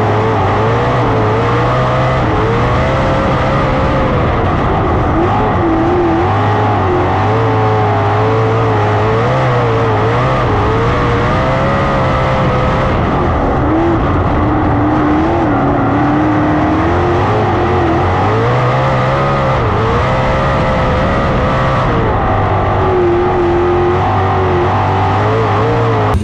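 410 sprint cars' V8 engines racing on a dirt oval, loud and continuous, the engine pitch rising on the straights and falling into the turns every few seconds.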